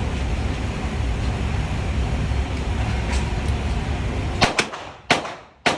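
A steady rushing noise, then from about four and a half seconds in, four sharp gunshot cracks from a .22 handgun, the first two close together. The last two are about half a second apart.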